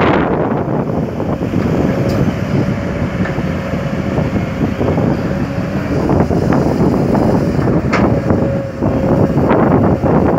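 Kobelco SK200 hydraulic excavator working with its diesel engine under load, a loud continuous mechanical din with a steady thin tone through most of it. Wind buffets the microphone.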